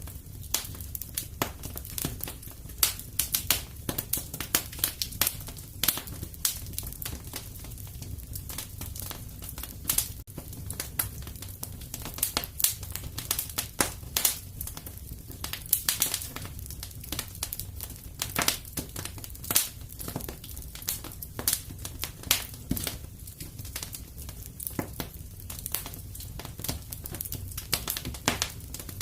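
Wood fire crackling in a fireplace: a steady run of irregular sharp pops and snaps over a low, even rumble.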